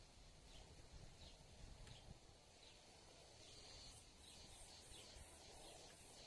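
Faint wild birdsong: short high chirps, each falling in pitch, repeated at an unhurried pace. About two thirds in, a rapid, even run of high-pitched pulses joins in, about five a second.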